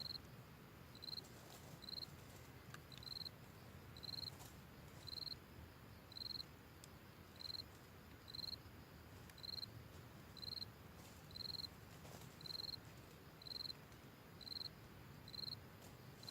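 An insect calling in the forest: a short, high-pitched chirp repeated evenly about once a second, faint over a low background hiss.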